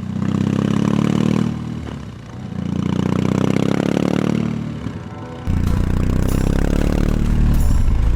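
BMW R18 Classic's big boxer twin engine revved twice from idle, each blip rising and falling back. About five seconds in there is a sudden switch to a steadier, heavier low rumble.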